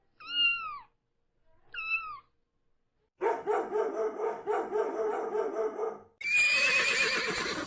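A string of animal calls. Two short calls that fall in pitch come first, then a quick run of repeated calls for about three seconds. About six seconds in, a high, wavering horse whinny begins.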